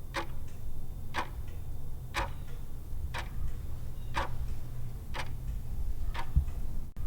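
Clock-ticking countdown sound effect marking the time left to answer a quiz question: a sharp tick about once a second with fainter ticks between, over a low steady hum.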